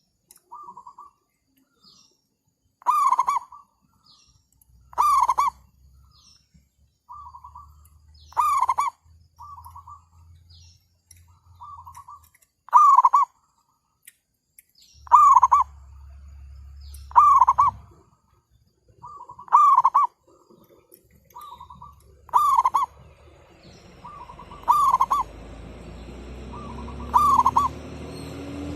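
Zebra doves cooing: a loud, close call comes every two to three seconds, with fainter calls from another dove between them. Near the end a low drone rises in pitch and grows louder underneath.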